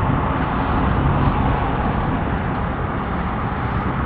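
Motorcycle engine running under a steady rush of wind and road noise, with a low hum that grows stronger about a second in.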